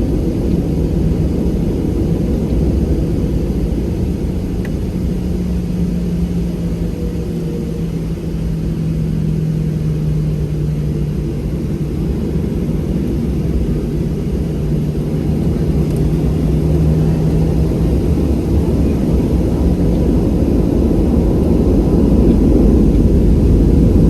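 Boeing 737-700 cabin noise: the CFM56 engines and airframe give a steady low rumble with a low hum that shifts a little in pitch, growing louder in the last several seconds.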